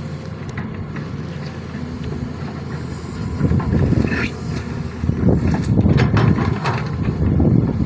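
Sany SY215C hydraulic excavator's diesel engine running steadily, then working harder and louder about three and a half seconds in and again just after five seconds as the hydraulics take load.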